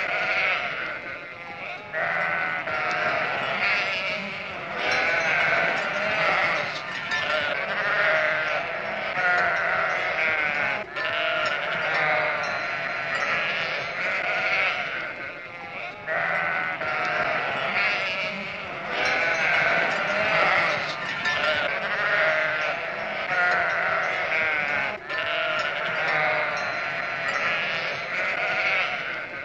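Sheep bleating almost without pause, several wavering calls following and overlapping one another, with only brief breaks.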